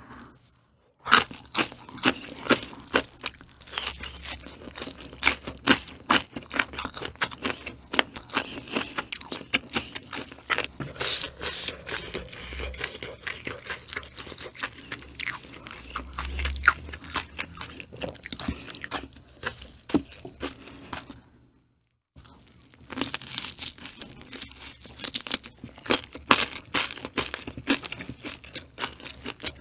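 Close-miked chewing and crunching of crunchy food, a dense run of irregular crisp crunches. There is a brief silent break a little past two-thirds of the way through.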